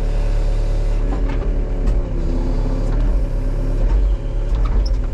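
Case excavator's diesel engine running under hydraulic load as the bucket and arm re-grip a tree stump, the pitch of the hydraulics shifting as the controls move. Scattered clicks and knocks come through over the engine.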